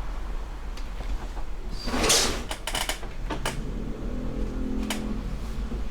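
Handling noises: a few sharp clicks and knocks, with a short scraping rush about two seconds in.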